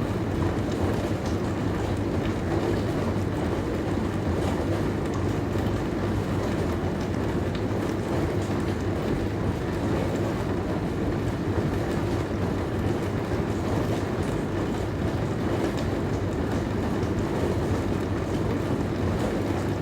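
Dishwasher running through its wash: a steady spray and wash of water inside the tub over a constant low hum.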